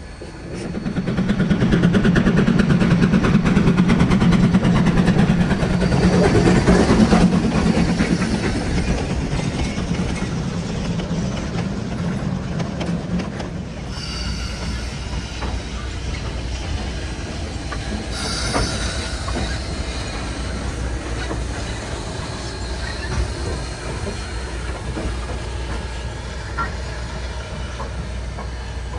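Durango and Silverton narrow-gauge train rolling past. It is loudest from about a second in until about eight seconds, then settles into a steady low rumble of cars rolling on the rails, with a short burst of wheel squeal about 18 seconds in.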